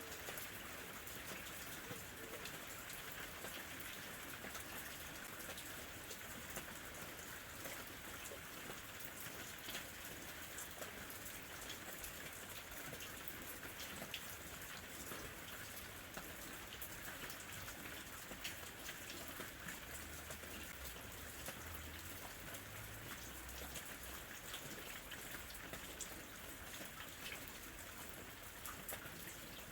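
Steady rain falling, a constant hiss dotted with the fine ticks of individual drops landing on a surface. A faint low rumble comes in about two-thirds of the way through.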